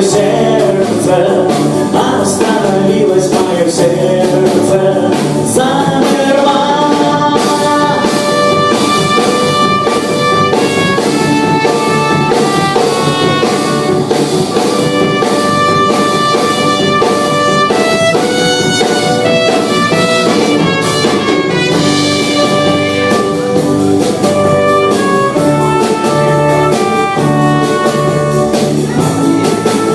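Live rock band playing an instrumental passage with a drum kit under a lead line of held, stepping notes.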